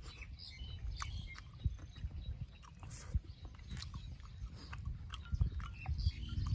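A person chewing a mouthful of fertilized duck egg (balut), with many short, wet smacking clicks of the lips and mouth.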